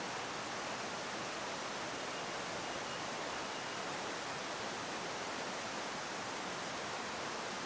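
Steady, even rushing of water with no breaks or separate events.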